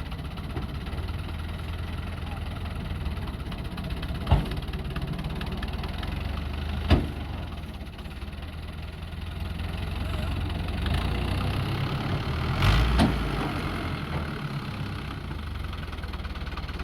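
Fiat 640 tractor's diesel engine running steadily while hauling a loaded sugarcane trolley out of a wet field. Two sharp knocks cut through about four and seven seconds in, and the engine grows louder later on with a few more knocks.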